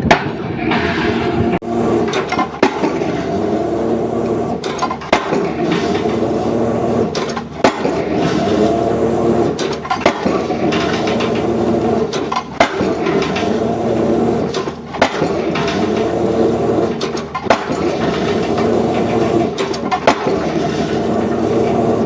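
Heavy machine engine running steadily while a pile-driving hammer strikes, with sharp impacts about every two and a half seconds and smaller cracks between.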